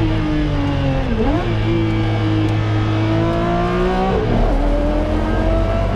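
Maserati MC12 Corsa's naturally aspirated V12 running loud under acceleration, its pitch climbing with the revs. It drops sharply twice, about a second in and about four seconds in, as it shifts up a gear.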